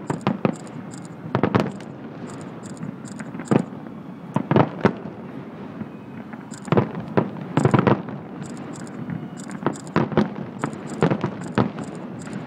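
Aerial firework shells bursting in a fast, irregular barrage of booms, several going off in quick clusters, in a fireworks finale.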